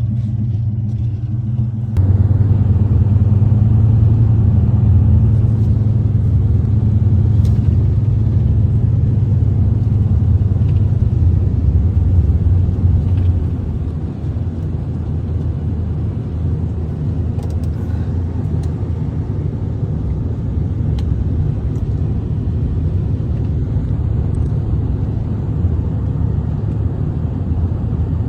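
Snowplow pickup truck's engine running with a steady low rumble. It rises sharply about two seconds in, as if under more throttle, and eases back down after about thirteen seconds.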